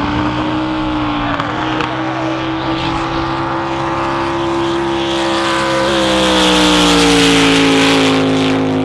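Jet drag boat engine running flat out down the course: a loud, steady engine tone whose pitch rises slightly and then steps down about six seconds in. A rushing hiss builds over it and peaks near the end.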